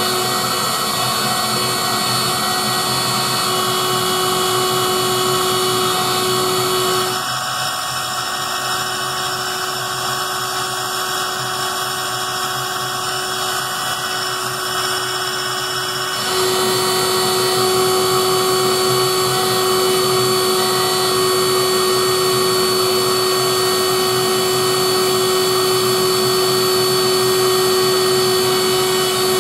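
A 3D-printed DIY CNC engraver running as it engraves a copper PCB: a steady high spindle whine over machine noise. The sound drops a little in level and tone about seven seconds in and rises again around sixteen seconds.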